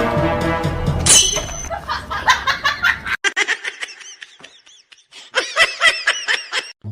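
Rapid, high-pitched laughter in short repeated bursts, broken by a brief silence about three seconds in; a short burst of music ends about a second in.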